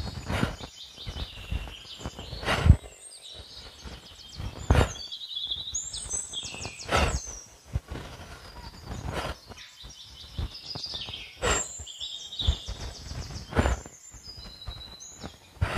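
Birds singing repeated high trills and chirps, with a short thud or rustle about every two seconds.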